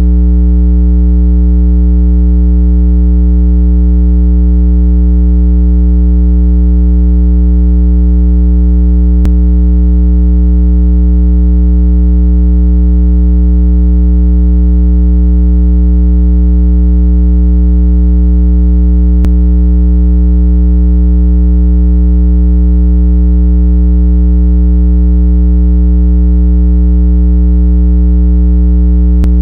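Continuous electronic water-eject tone: a loud, steady, low hum with a stack of overtones, played through a speaker to vibrate trapped water out of earbuds. A faint click comes about every ten seconds.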